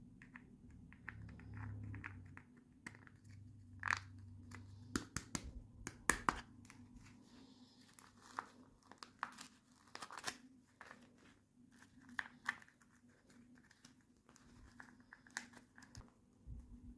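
Toy packaging being handled and opened: plastic and paper crinkling and tearing, with irregular small clicks and crackles, a few louder ones scattered through.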